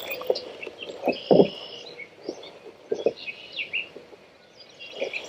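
Birds calling and chirping, short high calls repeating throughout, with a few brief dull knocks, the loudest about a second and a half in.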